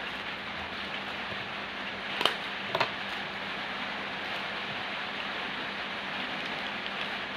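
Steady hiss with two sharp little clicks about half a second apart, a little over two seconds in.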